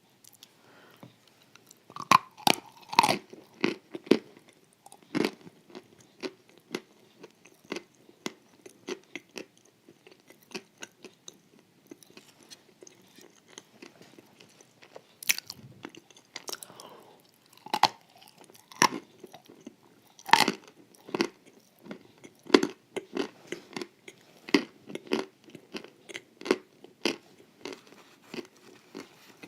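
Someone biting into and chewing crisp, porous wafers with cream: a long run of sharp crunches, with several especially loud bites spread through.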